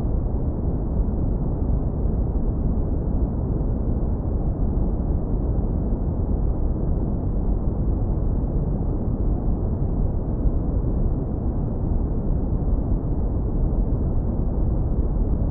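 Steady deep brown noise, heavily low-pass filtered so it is a warm, smooth rumble with no hiss on top.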